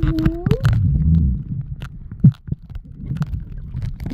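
Muffled low rumbling of sea water around the camera, with scattered knocks and bumps. A short rising tone sounds near the start.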